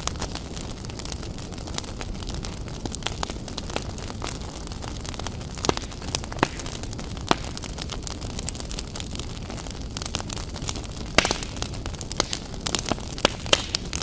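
Wood fire of burning logs crackling: a steady low rumble of flame with frequent sharp pops and snaps, which come thicker and louder about eleven seconds in.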